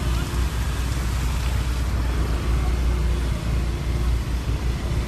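Heavy rain falling steadily in strong wind, a dense hiss of rain with a deep, gusting rumble of wind buffeting the microphone.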